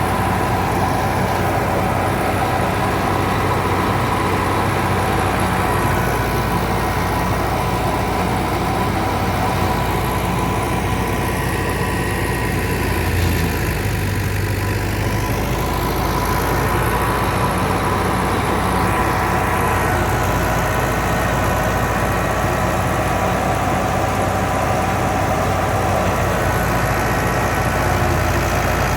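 Fiat 640 tractor's diesel engine running steadily under load, driving a wheat thresher, with the thresher's drum and fans whirring along with it.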